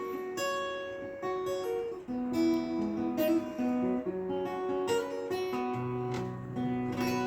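Acoustic guitar playing the instrumental introduction to a bard song: a melody of picked single notes, with low bass notes joining about two-thirds of the way through.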